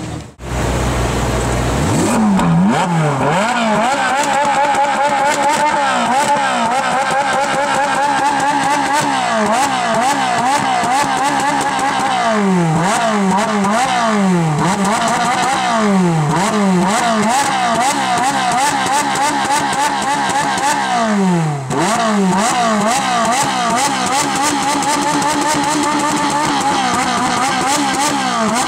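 Ferrari 458 Italia's V8, stock exhaust, revved again and again, its pitch climbing and dropping in quick repeated blips toward redline.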